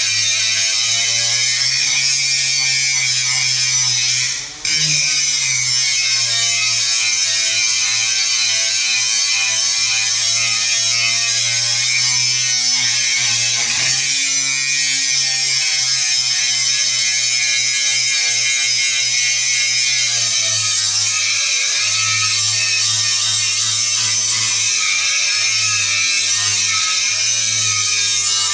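Angle grinder running continuously on steel: a loud motor whine with a harsh grinding hiss, its pitch wavering as the disc is loaded and eased off. About four and a half seconds in, the sound dips briefly and then comes straight back.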